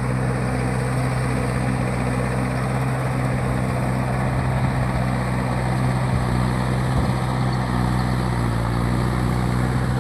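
Mahindra 585 tractor's diesel engine running at a steady speed, with an even low hum.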